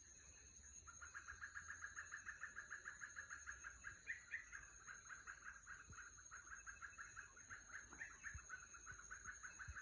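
An animal calling in a fast, even run of pulses, about eight a second, starting about a second in and keeping on.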